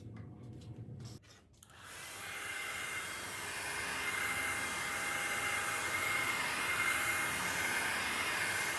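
A small electric power tool switches on about two seconds in and runs steadily with a high, whining hiss.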